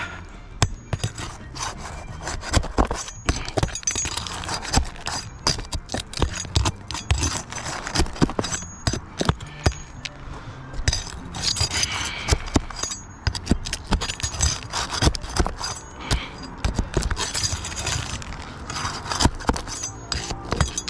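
Asphalt roof shingles being pried up and their roofing nails pulled: repeated scraping and rubbing of a metal prying tool under the shingles, broken by many sharp knocks and clicks.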